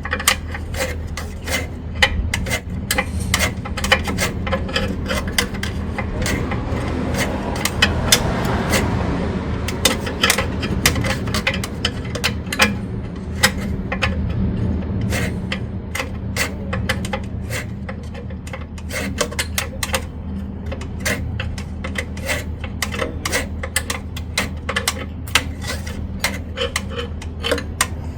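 Hand ratchet clicking in quick runs as bolts are backed off during an engine pull, with a steady low hum underneath.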